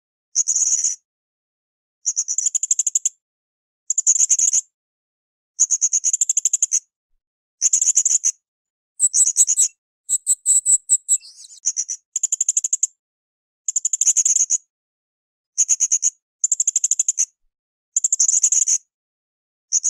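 Srindit hanging parrot calling: a high, rapid buzzing trill about a second long, repeated about every two seconds with silence in between. Around the middle the pattern changes to a run of shriller notes with a rising glide.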